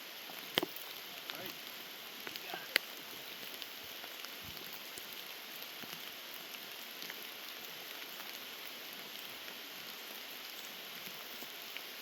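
Heavy rain falling steadily, a downpour, with scattered sharp clicks, two louder ones in the first three seconds.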